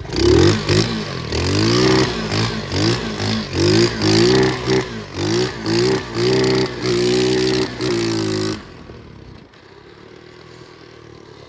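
125cc pit bike engine revving up and down in quick repeated blips of the throttle, then cutting out suddenly about eight and a half seconds in.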